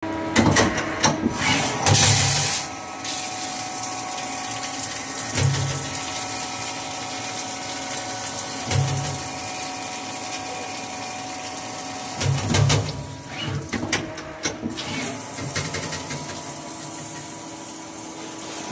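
CNC machine running: a steady whine of several fixed tones, with a low surge about every three and a half seconds and a run of clicks and knocks a little past the middle.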